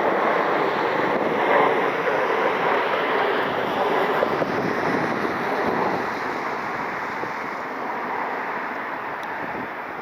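Jet airliner engine noise from an aircraft passing at the airport: a steady wide rush that begins to fade about six seconds in.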